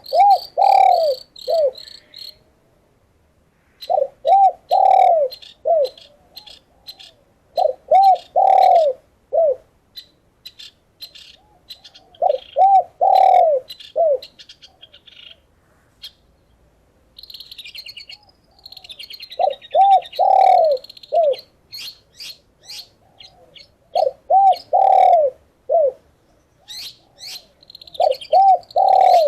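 Dove cooing in repeated phrases of about four arched notes, roughly every four seconds, about seven phrases in all. Between them, small songbirds give quick high chirps and, midway, a longer high warbling trill.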